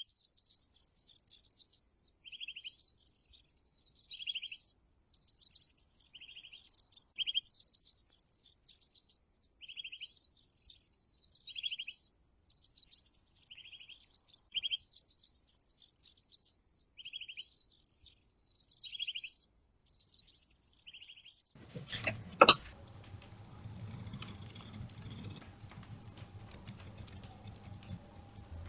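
A songbird repeating a short high warbled phrase every couple of seconds. About 22 seconds in this gives way to two sharp metallic knocks, then a steady low hum with faint clinking.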